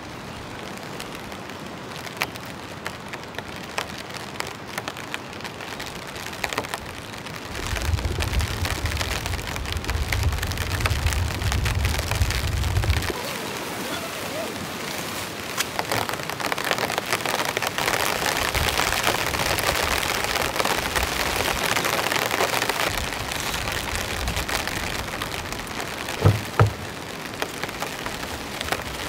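Heavy rain pattering down in a dense wash of drops, growing heavier about a quarter of the way in. A low rumble lasts several seconds early on, and two sharp thumps come near the end.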